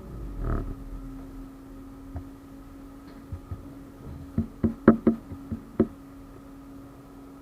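A 71-931M Vityaz-M tram standing still with a steady hum. There is a thump about half a second in, then a quick run of about seven sharp knocks a little past the middle.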